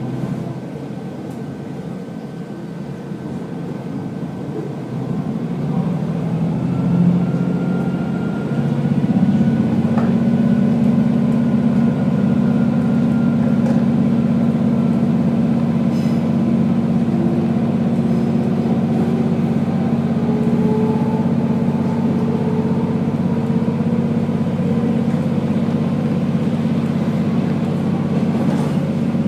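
Diesel railcar running along the line. About eight seconds in, its engine takes up load and grows louder, then holds a steady drone. Over it, a whine climbs slowly in pitch as the train gathers speed.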